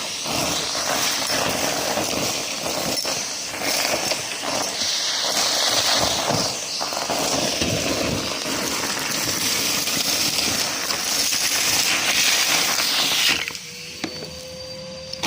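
Numatic James vacuum cleaner running and sucking up dry mess, a dense crackling and rattling of debris over the steady motor. Near the end the crackle stops suddenly, leaving a quieter steady motor hum with a thin tone that rises slightly.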